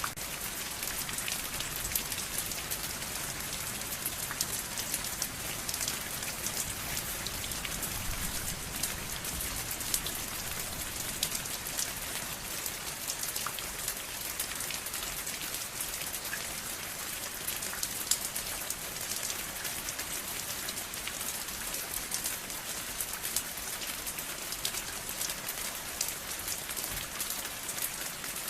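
Steady rain falling: a dense, even hiss full of small drop ticks.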